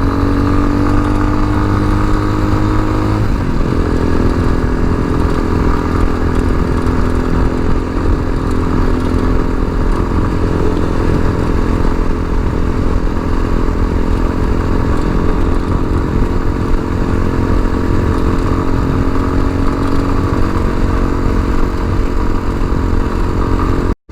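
Tao Motor TBR7 dual-sport motorcycle's single-cylinder engine running under way. The pitch climbs slightly for about three seconds, changes as the revs shift, then holds a steady cruise.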